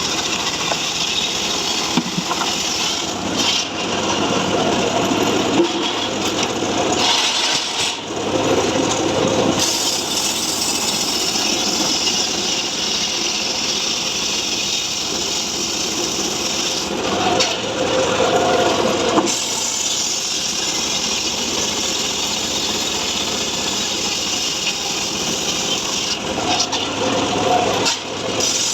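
Homemade sawmill cutting mahogany wood: a continuous machine-driven sawing noise that grows louder in stretches a few times as the blade works through the wood.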